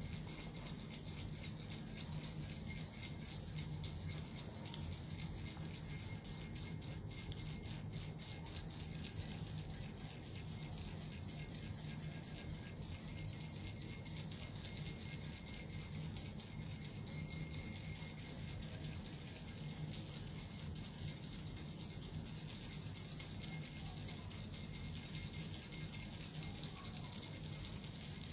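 Suzu bells and a metal rattle shaken without pause in a steady, rapid jingle, the bells ringing on throughout.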